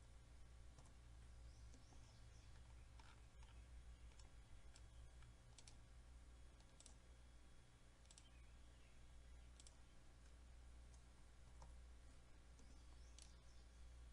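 Faint computer mouse clicks, scattered irregularly about once a second or less, over a low steady hum in near-silent room tone.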